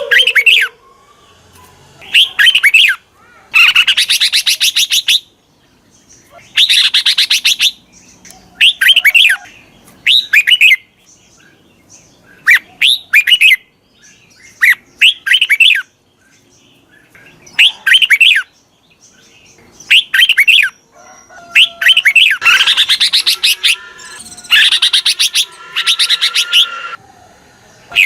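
Red-whiskered bulbul singing: short phrases of bright, sweeping whistled notes repeated every second or two, with a few longer, harsher and denser phrases among them.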